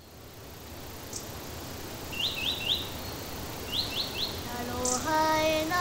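Outdoor ambience fading in, with a bird giving two quick runs of three chirps and a couple of higher single notes. Near the end, a voice starts singing held notes.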